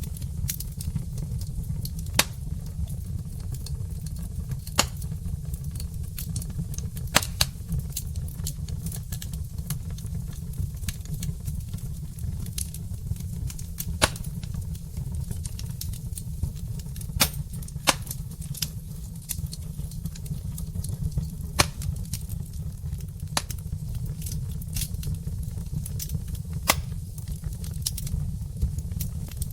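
Wood fire burning in a brick fireplace: a steady low rumble with irregular sharp crackles and pops, a few of them much louder than the rest.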